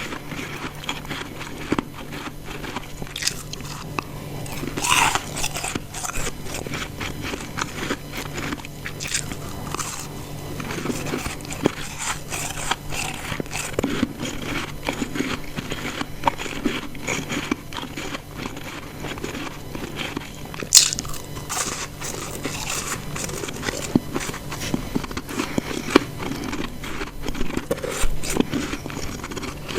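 Close-up crunching of ice chunks being bitten and chewed: a dense run of sharp cracks and grinding crunches, with louder bites about five seconds in and again near twenty-one seconds.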